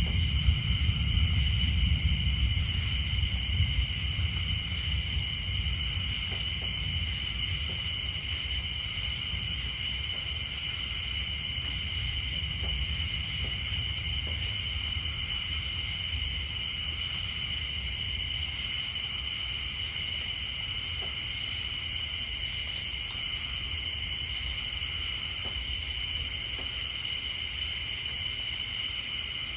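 Night chorus of insects and tree frogs: a steady high-pitched drone with a higher buzz that pulses on and off every second or two. A low thunder rumble fades away in the first few seconds.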